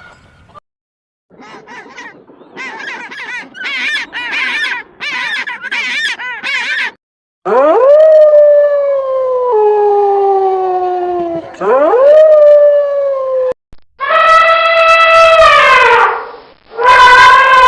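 A farm animal calling: a run of short, wavering calls that grow louder, then four long, drawn-out calls that rise at the start and slide down in pitch, the last two loudest.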